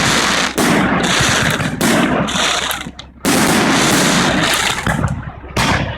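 Fireworks display: loud bangs going off one after another, four in all, each starting suddenly and fading over about a second.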